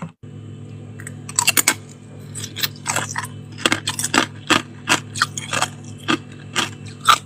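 Chewing a mouthful of freezer frost: sharp crunches about two or three times a second, starting about a second in, over a low steady hum.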